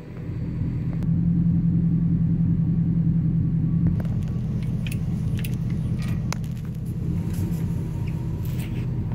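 Vehicle engine running with a steady low hum that swells over the first second and then holds, with light clicks and rattles over the second half.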